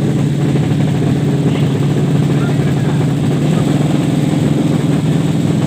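Drag-bike motorcycle engine idling with a steady, even note, with no revving.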